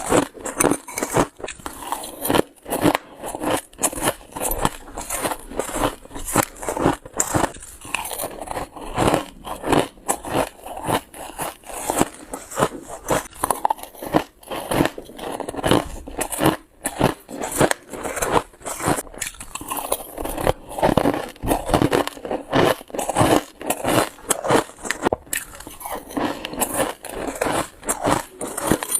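Close-up crunching of shaved ice being bitten and chewed off a spoon: rapid, irregular, crisp crunches one after another.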